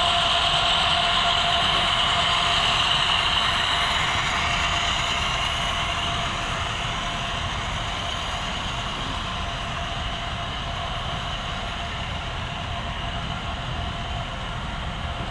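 HO scale model train running along the layout's track: a steady hum with a whirring of wheels and motor, slowly getting quieter from about four seconds in as it moves off.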